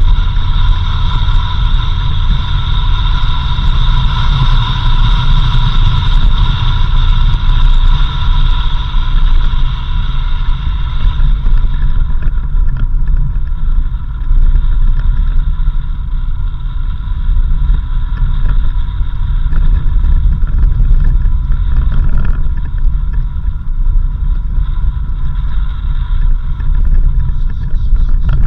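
Low, steady rumble of a 4x4 driving along a dirt road, with a set of steady high tones that fade about twelve seconds in.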